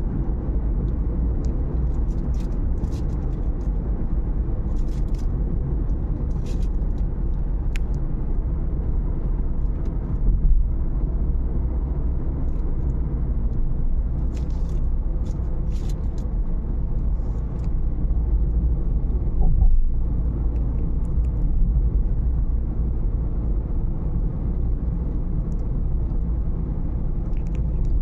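Dust-storm wind buffeting the microphone: a steady low rumble, with stronger gusts about ten and twenty seconds in.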